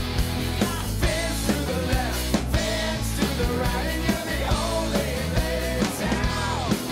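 A band playing a song with a steady beat of about two strokes a second, with repeated sliding notes that fall in pitch.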